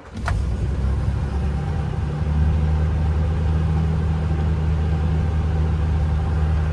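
1934 Packard Eight's straight-eight engine started from ice cold: a click just after the start, then the engine catches within about a second and settles into a steady idle. The idle is held a little fast by the hand throttle for the cold start.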